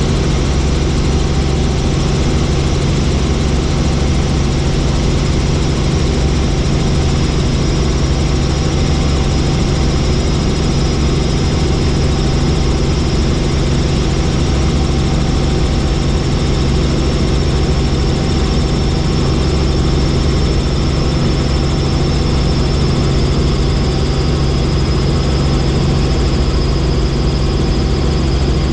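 Helicopter in steady flight: constant loud engine and rotor noise, with a faint high whine above it.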